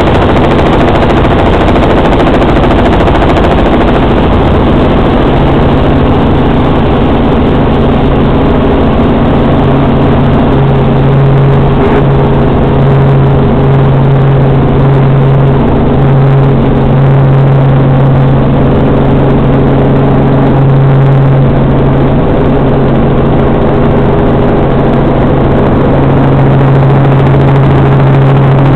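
Robinson R44 Raven I helicopter's six-cylinder piston engine and rotor running in a loud, steady drone with a constant low hum.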